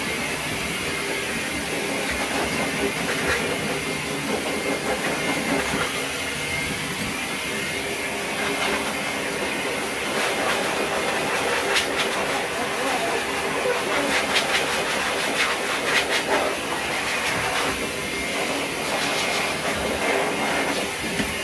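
Pet blow dryer running steadily with a loud rushing hiss of air, blowing over a small dog's coat. A few brief clicks come about two-thirds of the way through.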